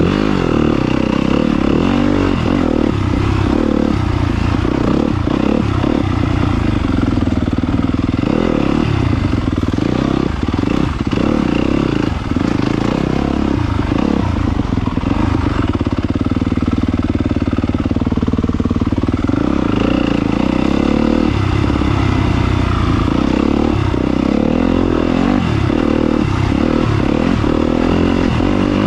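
2022 Yamaha YZ250FX dirt bike's 250 cc four-stroke single-cylinder engine running under way on a trail, its pitch rising and falling as the throttle opens and closes, with rattles from the bike over rough ground.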